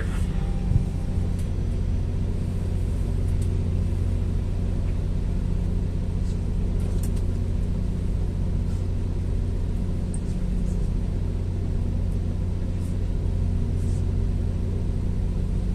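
GO Transit commuter train running with a steady low drone just after its doors have closed, with one brief low knock about a second in.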